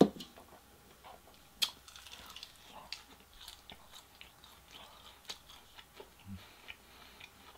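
Close-up crunching and chewing of crispy double-fried Korean fried chicken, with a sharp crack about a second and a half in and small crackles after it. A single sharp knock at the very start, louder than the rest, is a drink can being set down on the table.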